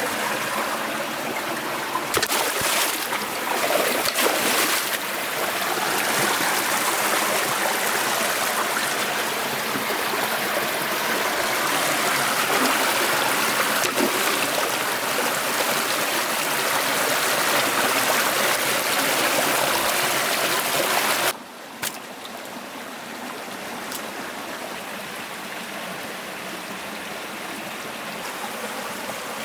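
Forest stream water flowing and trickling over rocks, a steady rushing with a few knocks near the start. About two-thirds of the way through it cuts suddenly to a quieter, softer flow.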